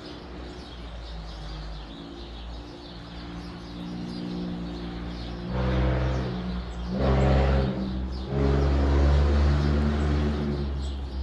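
A motor vehicle's engine going by, getting louder in the second half, its pitch changing in steps as it accelerates. Small birds chirp faintly behind it.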